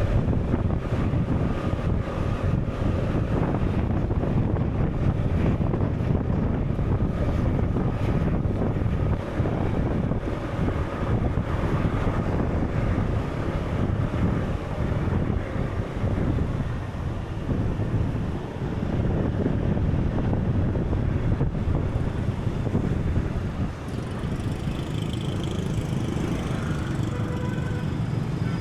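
Steady, low, rumbling wind-like noise, with faint thin tones coming in near the end.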